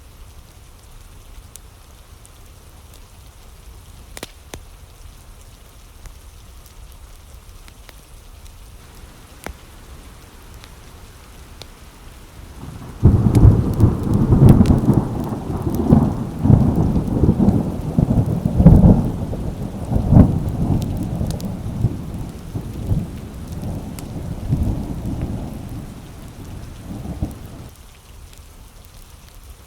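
Steady rain drumming on window glass, with faint scattered fireplace crackles. About thirteen seconds in, a clap of thunder breaks in suddenly and rolls on in heavy low rumbles, dying away over about fifteen seconds.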